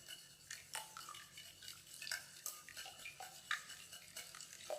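Egg and egg yolk being beaten in a bowl: irregular clinks and taps of the utensil against the bowl, about two a second.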